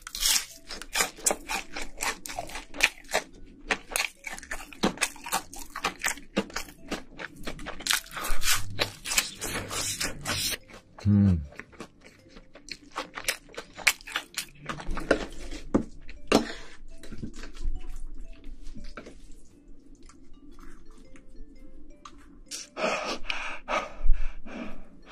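Close-up crunching and chewing of food, with dense, rapid crunches over the first ten seconds or so and sparser ones after. A short closed-mouth hum comes about eleven seconds in.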